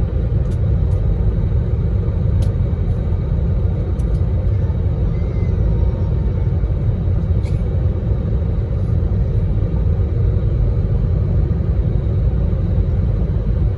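Steady low rumble of an airliner in flight, engine and airflow noise heard inside the passenger cabin, with a few faint clicks.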